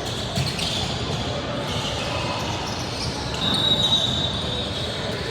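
Basketball game sounds in a gym: a ball bouncing on the court amid echoing background voices, with a short high-pitched tone about three and a half seconds in, the loudest moment.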